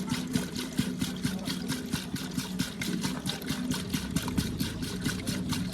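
Diesel engine of a backhoe or tractor running steadily at low speed: an even hum with a fast, regular clatter of about six or seven ticks a second.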